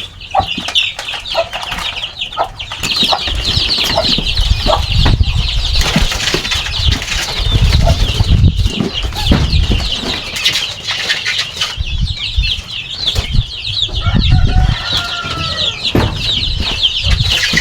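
A brood of chicks peeping without pause in a dense stream of high cheeps, with a hen calling among them about two-thirds of the way through. Loud dull rumbling and fluttering underneath from a few seconds in.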